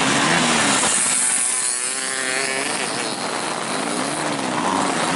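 Racing dirt-track motorcycle engines revving hard, their pitch rising and falling as the bikes accelerate and back off, over a steady hiss.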